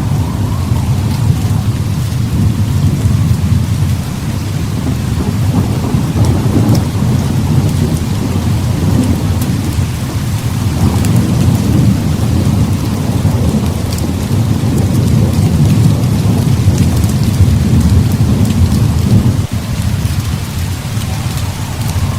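Heavy rain falling steadily, under a continuous low rolling rumble of thunder that swells and eases every few seconds.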